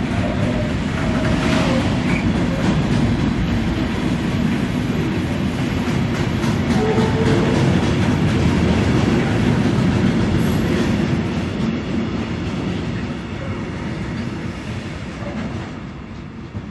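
Intermodal freight train rolling past, its wagons and wheels making a steady rumble on the rails. The sound fades near the end as the train moves away.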